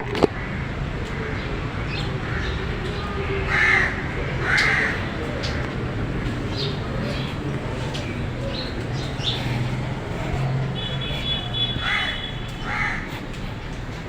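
Crows cawing: two calls about four seconds in and two more near the end, over a steady low hum, with a sharp click right at the start.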